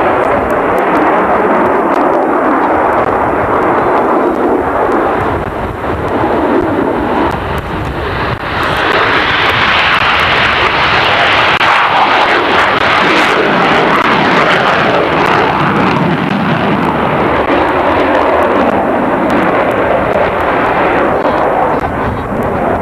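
Aircraft engines running loudly as a dense, steady roar. It swells and brightens about nine seconds in, then eases back after about sixteen seconds, as the aircraft draw near and move off.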